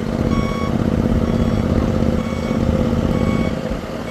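Self-propelled Conolift boat trailer under way: its engine running with a dense, steady rumble while its backup alarm beeps about once a second.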